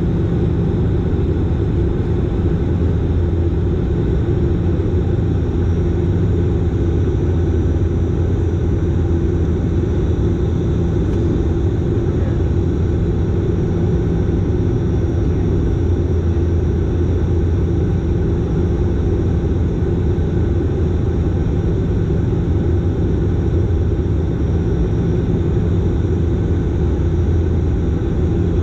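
Dash 8 Q400 turboprop engines and six-blade propellers running steadily: an even drone with a low hum.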